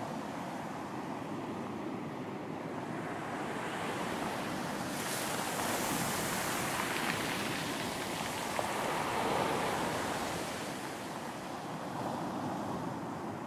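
Ocean waves on a beach. A wave swells, breaks about five seconds in with a broad wash of surf, and subsides after about ten seconds into a steady background of surf.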